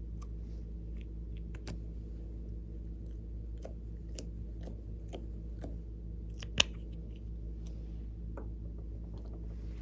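Slime being handled and squished, giving scattered small clicks and pops, with one sharp, loud pop about six and a half seconds in, over a steady low hum.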